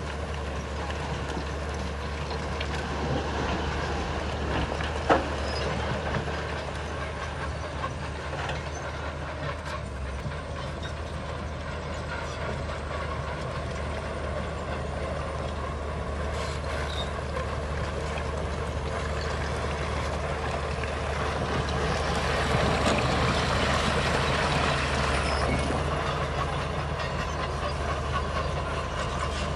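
Bulldozer's diesel engine running steadily under load, with scattered metal clanking and a single sharp knock about five seconds in. The engine grows louder for a few seconds about two-thirds of the way through, as if working harder.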